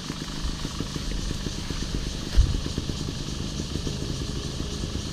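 Off-road motorcycle engine running steadily with a fast, low pulsing, and a single thump about two and a half seconds in.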